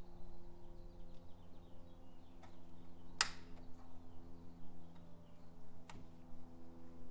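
Hand tools clicking and tapping on metal parts during engine-bay teardown, with a sharp metallic clank a little over three seconds in and a smaller one near six seconds, over a steady low hum.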